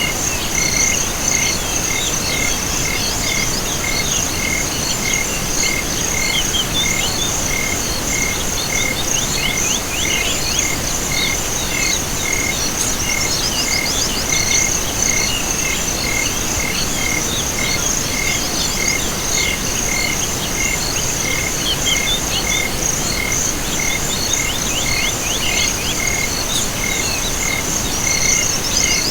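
Night chorus of insects and frogs: a steady stream of high trilling and chirping, with one note pulsing about twice a second, over an even hiss.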